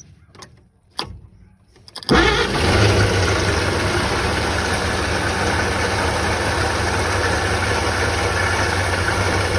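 1952 Chevrolet truck's straight-six engine catching about two seconds in after a quiet pause broken by one click, then running steadily: its first run after sitting 50 years.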